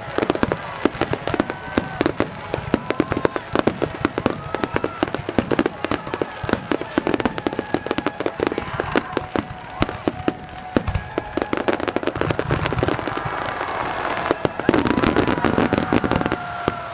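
Fireworks barrage: many aerial shells bursting in rapid, overlapping bangs and crackles, growing louder and denser near the end.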